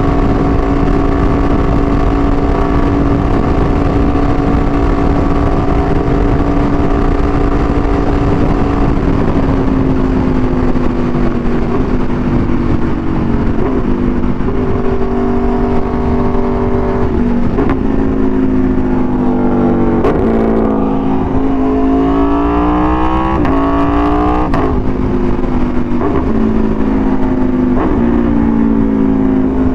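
Aprilia Tuono V4 1100's V4 engine through an SC-Project exhaust while riding. It holds steady revs at first, then eases off. A series of gear changes follows, with the revs climbing hard through quick upshifts past the middle, and the revs fall away near the end.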